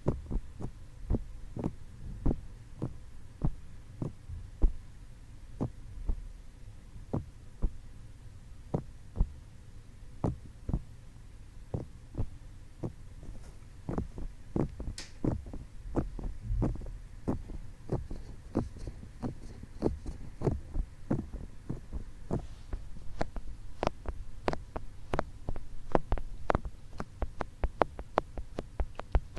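ASMR ear tapping: fingertips tapping on the microphone's ears, heard as soft, dull, muffled taps. They come about twice a second at first and quicken to a faster run of several taps a second near the end.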